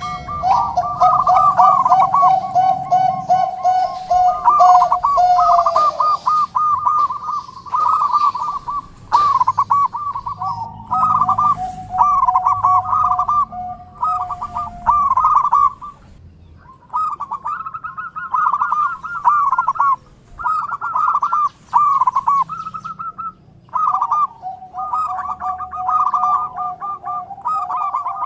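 Zebra doves (perkutut) cooing: repeated bouts of quick, rhythmic coos, with two doves often overlapping at different pitches.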